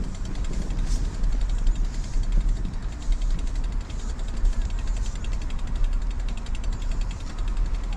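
Wind buffeting the microphone of a rider on a road bicycle: a steady low rumble that swells and dips, with road and tyre noise.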